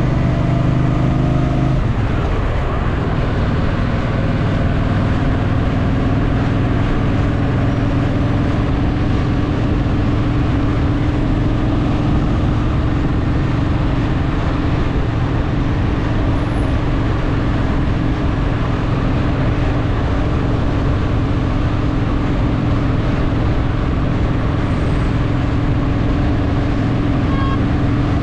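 Honda Shadow VT750's V-twin engine pulling the motorcycle through city riding, heard from the rider's seat with wind and road rush. About two seconds in the engine note changes, then holds steady at a cruising pace.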